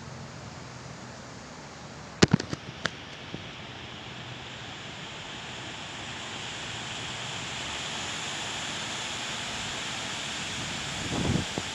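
Heavy wind blowing, a steady rushing hiss that builds about halfway through. A quick cluster of four or five sharp knocks comes about two seconds in, and a brief low rumble comes near the end.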